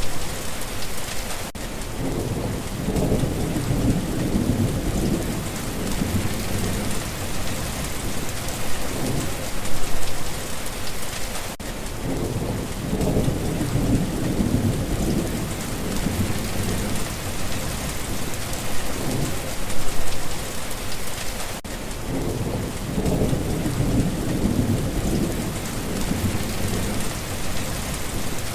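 Steady heavy rain falling, with low rolls of thunder swelling and fading about every ten seconds.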